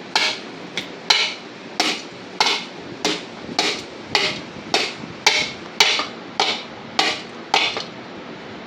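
Hammer blows on a rusted pulley on a lawn-mower rear differential, driving it off. About fourteen steady, evenly paced strikes, roughly one every half second, each with a brief metallic ring; they stop shortly before the end.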